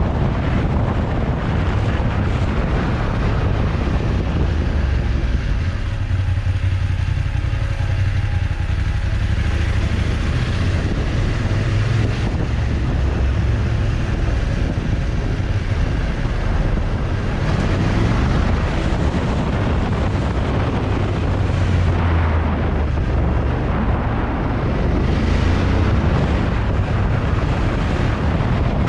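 Motorcycle engine running under way, with wind rushing over the microphone.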